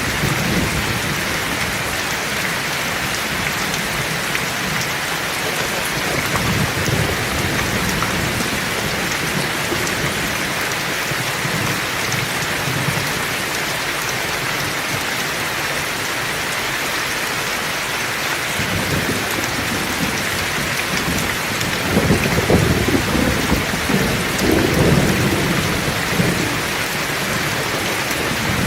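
Heavy rain falling steadily, with thunder rumbling low underneath. The thunder swells in the second half and is loudest about two-thirds of the way through.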